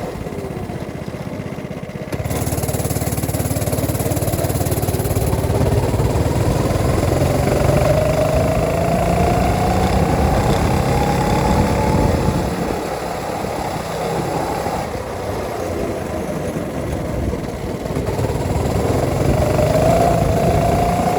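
Go-kart's small engine running while driving, its pitch rising and falling as the throttle changes, and getting louder about two seconds in.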